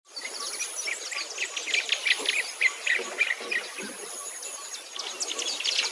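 Birds chirping: a rapid run of short calls, with a thin, steady, very high-pitched tone that comes and goes.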